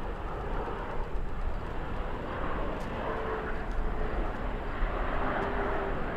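CT-114 Tutor jets of the Snowbirds team passing in flight, their single turbojet engines making a steady rushing roar. A faint whine sinks slightly in pitch over the last few seconds.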